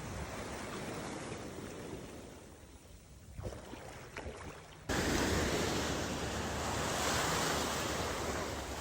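Ocean surf washing with wind buffeting the microphone. About five seconds in it cuts abruptly to a louder, brighter rush of surf and wind.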